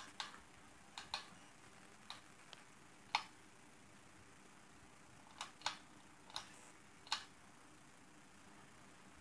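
Ceiling fan with a faint steady hum, broken by about ten sharp clicks at uneven intervals in the first seven seconds or so.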